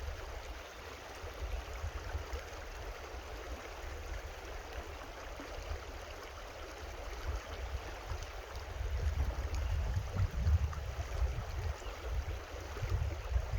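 A creek running: a steady rush of flowing water. A low, uneven rumble underneath grows stronger about nine seconds in.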